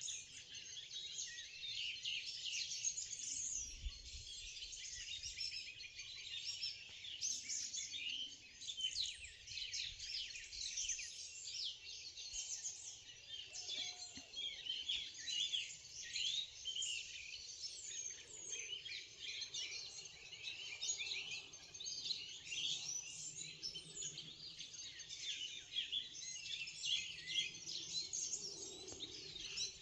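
Dawn chorus of many songbirds singing at once: dense, overlapping high chirps and trills with no break.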